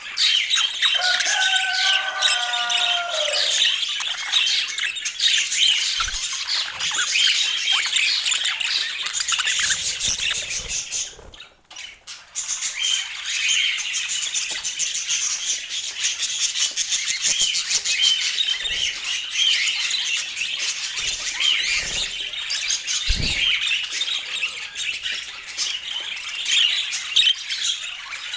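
Budgerigars chattering and chirping without a break, a dense stream of high warbles and squawks. A lower, longer call sounds a second or so in, and the chatter drops out briefly about halfway through before starting again.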